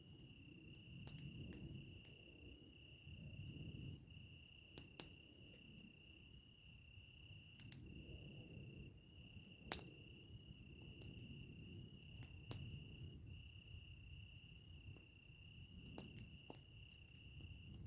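Campfire crackling faintly, with a few sharp pops, the loudest about ten seconds in, over a low uneven rumble. A cricket trills steadily and high-pitched throughout.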